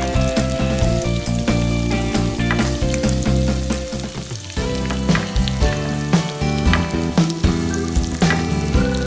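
Food frying in a pan, a steady sizzle with many small crackles, under instrumental background music with held notes.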